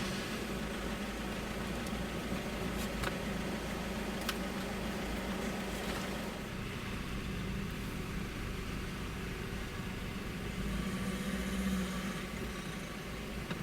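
Car engine running with a steady low hum and road and vehicle noise, with a couple of faint clicks about three and four seconds in.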